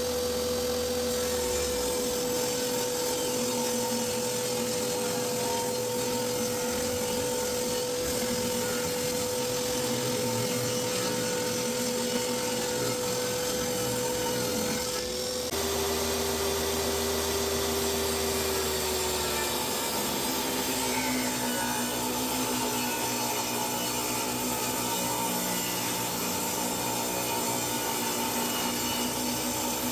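Table saw ripping the rough edges off long maple boards: a steady loud run of blade and cutting noise, with a short dip about halfway through after which the machine's tone sits lower.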